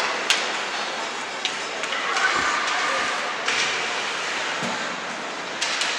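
Echoing ambience of a large hall: a steady hum of distant crowd chatter with scattered sharp clicks and knocks, the clearest about a third of a second in.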